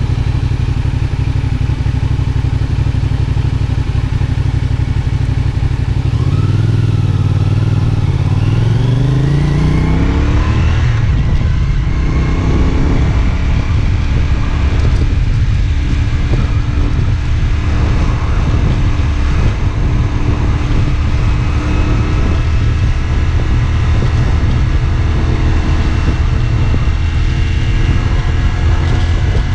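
A CFMoto 450SR S parallel-twin motorcycle engine heard from on the bike. It runs at a steady low note, then rises in pitch as the bike accelerates about six seconds in, climbs again a few seconds later, and settles into a steady cruising note under rushing road and wind noise.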